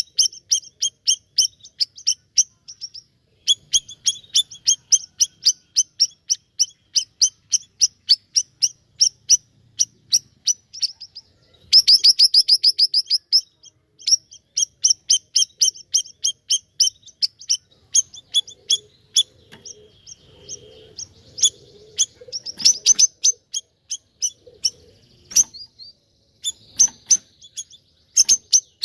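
Siri-siri (bayeman) songbird singing in full voice: long runs of short, sharp, high chirps repeated several times a second, broken by pauses, with a faster, louder rapid trill about twelve seconds in.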